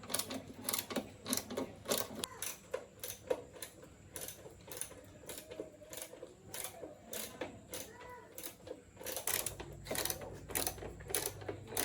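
Irregular metallic clicking and tapping of tools working on metal parts, several clicks a second. A low steady hum joins about nine seconds in.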